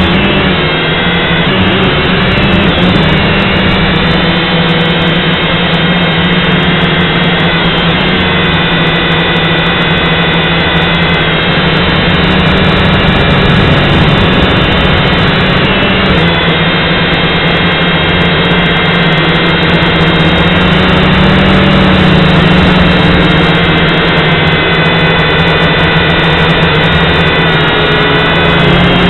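Syma X5C quadcopter's small coreless brushed motors and propellers whining steadily in flight, heard close up, the pitch shifting slightly now and then as the throttle changes.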